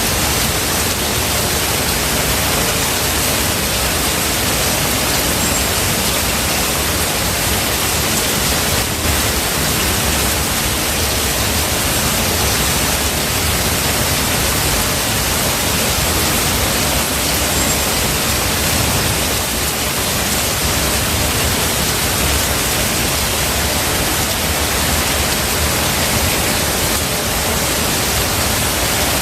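Steady heavy rain, a loud even hiss with no breaks or changes.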